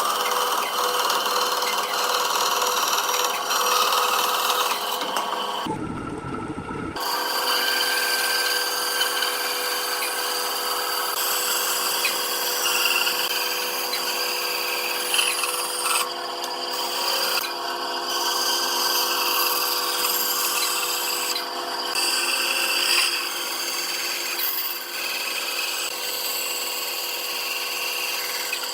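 A power tool running steadily while working wood, with a constant motor hum under the noise of the cut. About six seconds in the sound briefly changes to a deeper one for about a second.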